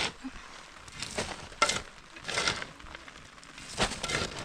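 Several short rustling, crinkling handling noises, a second or so apart, over a faint steady hiss.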